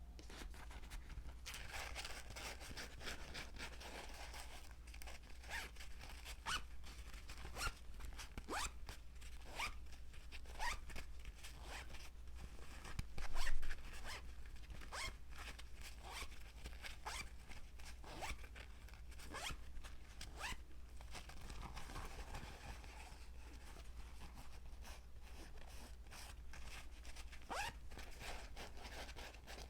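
Repeated short rasping strokes, many rising in pitch, roughly one a second, with one louder burst about 13 seconds in.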